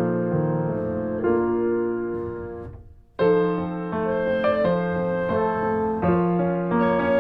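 Background piano music playing sustained notes. It fades almost to silence nearly three seconds in, then starts again abruptly a moment later.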